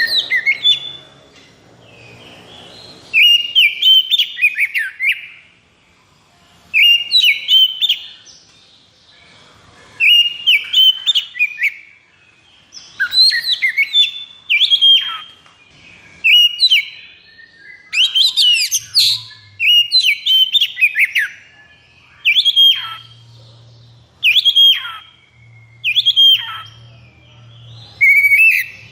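Oriental magpie-robin (kacer) singing: short phrases of fast, sliding whistled notes, repeated every two to three seconds with brief pauses between.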